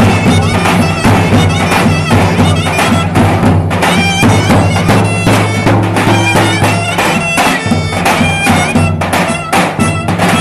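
Loud Turkish folk dance music: a reedy, bagpipe-like wind melody with quick trills over a steady low drone, driven by drumbeats.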